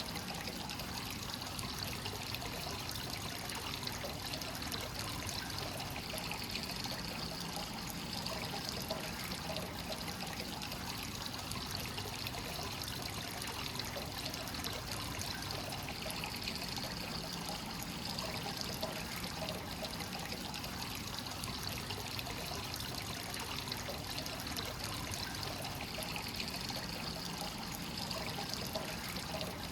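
Hot spring source water flowing without pause into a bath, a steady trickling and pouring with no breaks.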